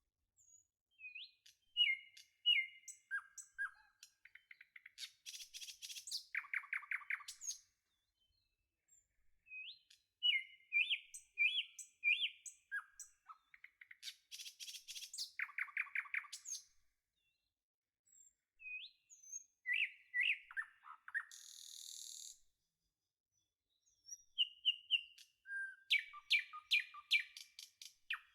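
Songbirds singing: chirps, short whistled notes and fast trills in phrases separated by brief pauses, with much the same sequence of phrases coming round again about every nine seconds.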